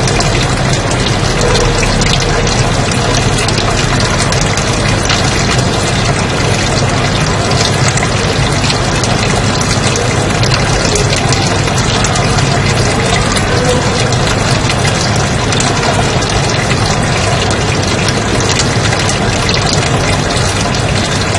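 Steady white noise: a continuous, unchanging rushing hiss with a low rumble underneath.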